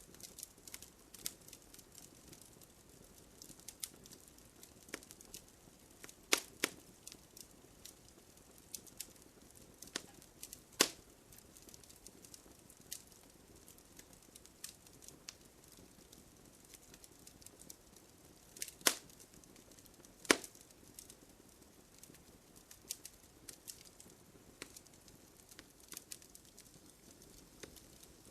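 Wood campfire crackling: a low steady hiss with many small irregular snaps and a few loud sharp pops.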